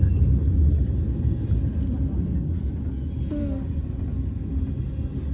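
Freight train cars rolling past in a steady low rumble, with faint ticks over it.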